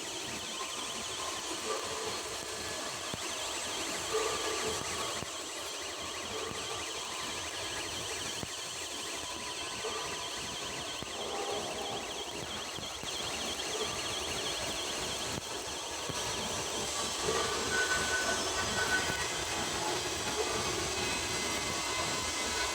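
Arc welding on a carbon steel pipe joint: the arc crackles and hisses steadily throughout.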